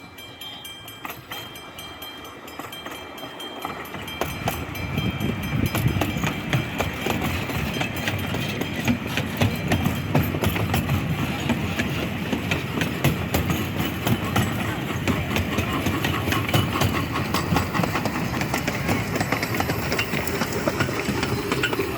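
Steam-hauled train running, its wheels clicking rapidly over the rail joints with a steady rumble that grows louder about four seconds in.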